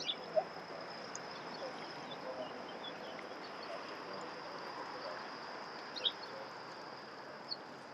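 Scattered short bird chirps, a few sharper ones near the start and about six seconds in, over a steady background hiss with a faint, steady high-pitched whine.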